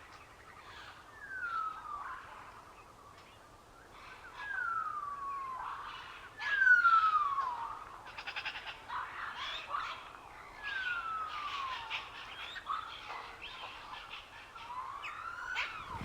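Bird calls: a series of long whistled notes, each sliding downward for about a second, with a rising whistle near the end and scattered short chirps between them.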